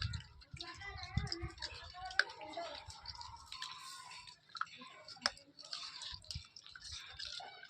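Langur monkey eating: irregular small clicks and crunches of chewing.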